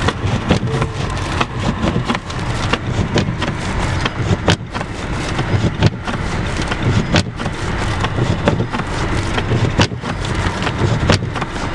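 Noise inside a car in a blizzard: a steady low rumble with frequent, irregular sharp clicks and knocks.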